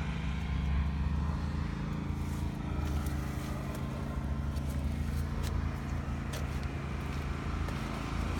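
Steady low mechanical hum, like an engine idling nearby, with a few faint light ticks in the middle.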